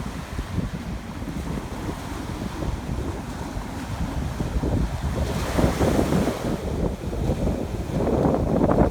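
Ocean waves breaking and washing up a beach, with wind buffeting the microphone. A wave's wash swells a little past halfway and again near the end.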